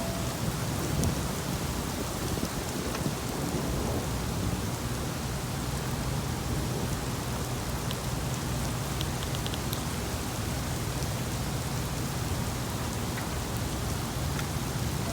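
Heavy thunderstorm rain falling steadily, with a low rumble of thunder underneath.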